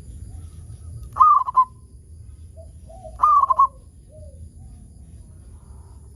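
Zebra dove (perkutut) cooing: two loud short phrases about two seconds apart, each a high opening note followed by a quick run of rolling notes. Fainter bird calls sound between them.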